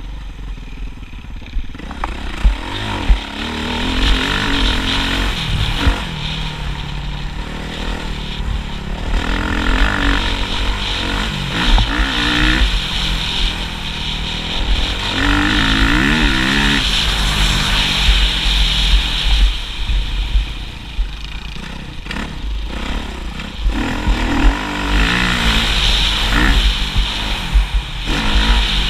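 Motocross bike engine revving up and falling back again and again, its pitch climbing and dropping several times, over a constant low rumble.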